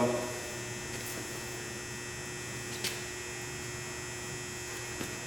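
A steady, faint electrical hum, with one short click about three seconds in and a fainter one near the end.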